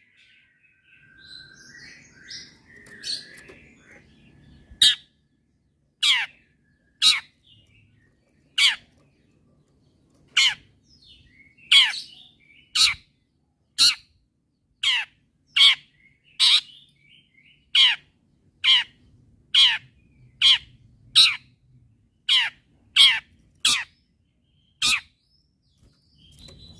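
Long-tailed shrike (cendet) giving sharp calls, each falling steeply in pitch, repeated about once a second, with softer twittering in the first few seconds.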